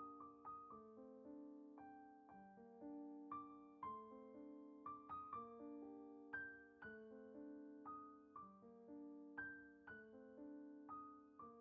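Quiet background piano music: a gentle melody of struck notes that ring and fade over lower sustained notes.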